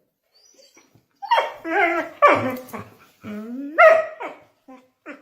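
A dog vocalising in a run of about five short, pitched barks and whines that slide down in pitch, starting about a second in.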